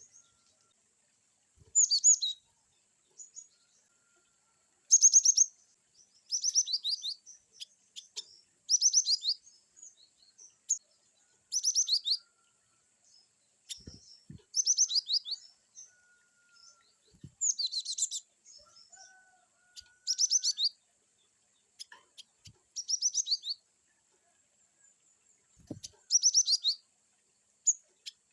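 Cinereous tit (gelatik batu) giving short, varied bursts of rapid high-pitched chirping "wicit" notes, about one phrase every two to three seconds.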